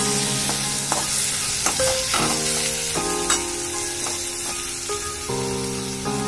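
Chopped onion and tomato sizzling in hot oil in a metal kadhai, stirred with a steel spoon that scrapes and clicks against the pan a few times. Background music with held notes plays underneath.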